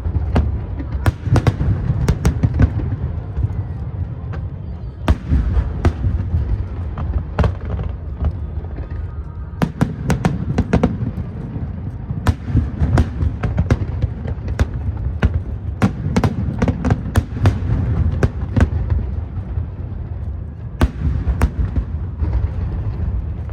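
Fireworks display: aerial shells bursting in sharp cracks, some alone and some in quick clusters, over a steady low rumble.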